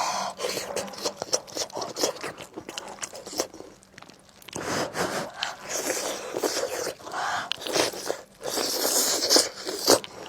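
A person biting and chewing tender braised spicy lamb chops close to the microphone, with wet mouth sounds and clicks. There is a short pause about four seconds in.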